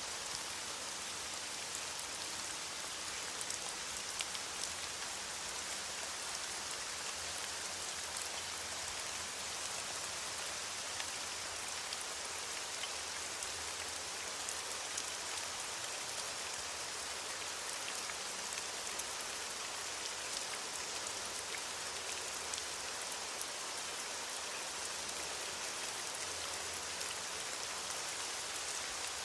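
Steady rain falling on leaves, an even hiss with scattered faint drop ticks.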